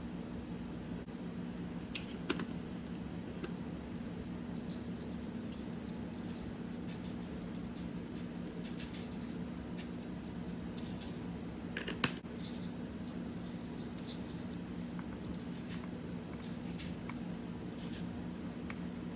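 Close-up eating sounds: wet chewing, lip smacks and small clicks, scattered irregularly with a sharper smack about two seconds in and another near the middle, over a steady low hum.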